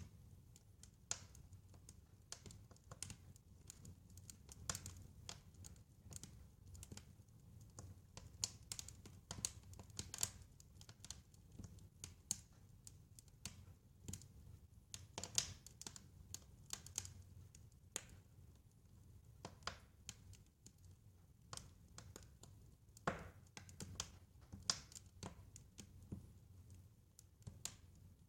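Wood fire crackling in a fireplace: quiet, irregular sharp pops and snaps over a faint low rumble of the flames.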